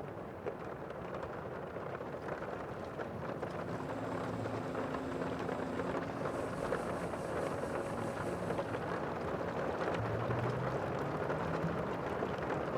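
Sea surf washing: a steady rushing noise that slowly grows louder, with a faint low hum partway through.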